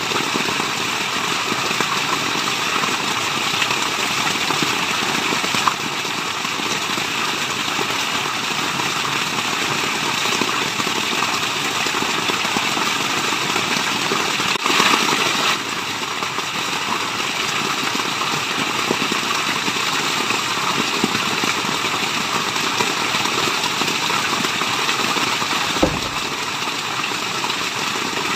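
Steady rushing water, an even, unbroken wash of noise, with a brief louder swell about halfway through and a few faint pops.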